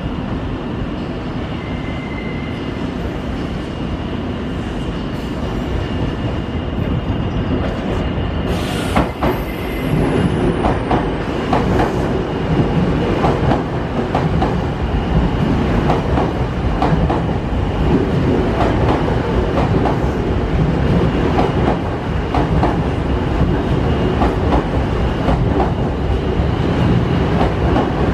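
Nankai electric train running on the station tracks, its wheels clattering over rail joints and points. About nine seconds in there is a sharp high sound that slides down in pitch, and after it the clatter gets louder.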